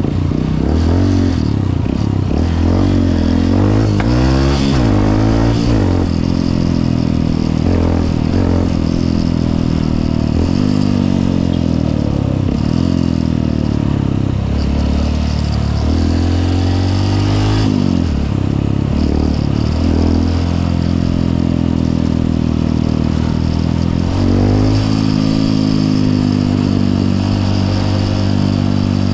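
Honda CRF150L's single-cylinder four-stroke engine running under way, its pitch rising and falling again and again as the throttle opens and closes.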